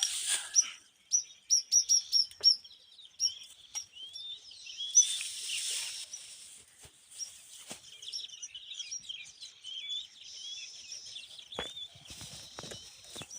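Nestling birds chirping in the nest: a quick string of short, high chirps, then more varied high calls, with a scratchy rustle about five seconds in.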